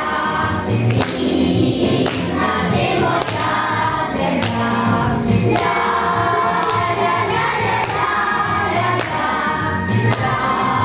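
A song with a choir of voices singing over backing music with a steady beat, about one beat a second.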